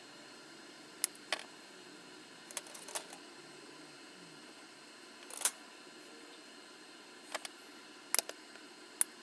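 A scattering of sharp clicks and light taps, about eight in all at uneven intervals, over a steady faint hiss: small hard objects being handled.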